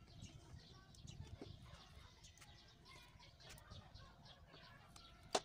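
Quiet background with faint bird chirps and a low rumble, and one sharp click near the end.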